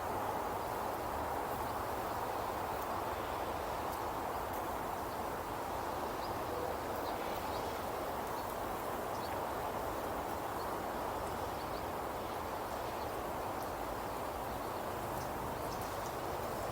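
Outdoor nature ambience: a steady, even rushing noise, with faint short chirps scattered above it.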